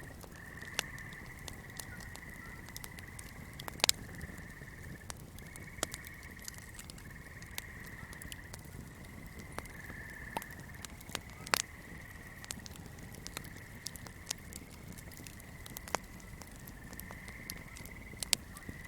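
Swamp ambience: a steady high-pitched chorus of frogs and insects, with irregular sharp crackles and pops from a burning flame. The loudest pops come about four seconds in and about twelve seconds in.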